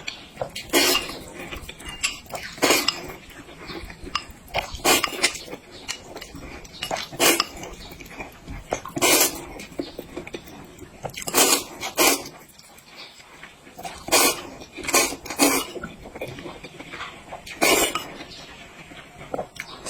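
Close-up eating sounds of a mukbang: a person biting and chewing food, with a sharp wet burst every second or two.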